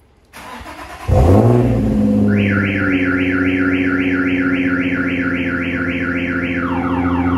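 Nissan 350Z's V6 cold-starting through a Tomei exhaust: a short crank, the engine catches about a second in with a rev flare, then settles into a steady idle. From about two seconds in a car alarm sounds over it, repeating rising chirps about four a second, changing to falling sweeps near the end.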